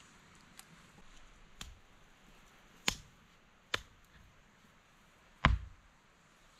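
Stones knocking against each other as they are set into a stone ring on bare earth: four short, sharp clacks, the last, near the end, loudest and heavier.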